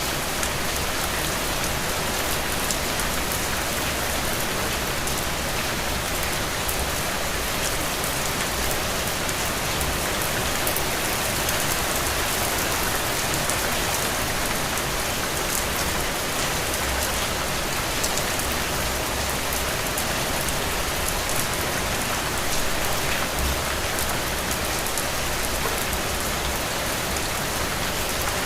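Steady rain falling, a dense even hiss of rain with many small drop ticks on a surface.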